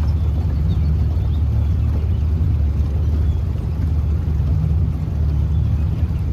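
Boat motor running steadily, a loud low rumble as the boat travels on the river.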